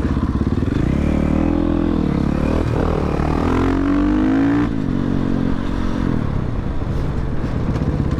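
Motorcycle engine running while riding. Its pitch rises as it revs up about three to four and a half seconds in, then drops off suddenly as the throttle closes.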